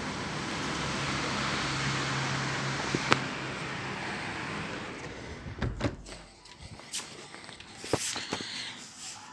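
Hiss of tyres on a rain-wet street with a low engine hum as a vehicle goes by, swelling and then fading away about five seconds in. A few sharp knocks follow.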